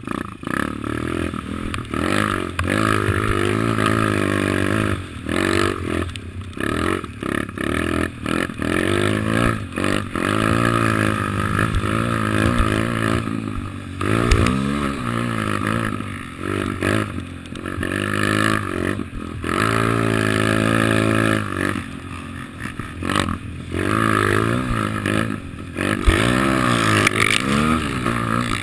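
Kawasaki KLX110 pit bike's small single-cylinder four-stroke engine running under riding throttle, its pitch rising again and again and dropping back, with short breaks where the throttle is let off.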